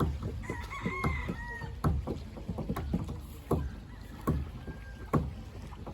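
A rooster crows once, from about half a second in. Under it, sharp knocks repeat at a steady beat of about one a second, the sound of hammering in boat repair work.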